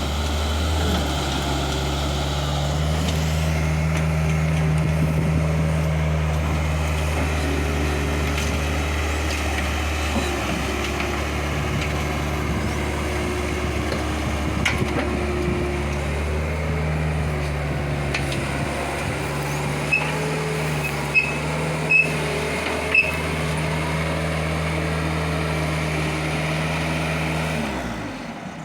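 Bobcat skid-steer loader's engine running steadily, its note dipping and coming back several times as it works, with five short high beeps around twenty seconds in. The sound cuts off near the end.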